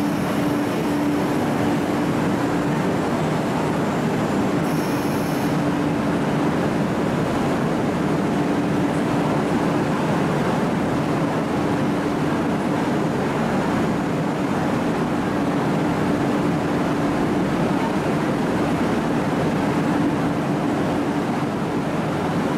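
MTR East Rail Line R-train electric multiple unit running through a station without stopping: a steady rumble of wheels and running gear with a constant low hum. A brief high-pitched whine comes about five seconds in.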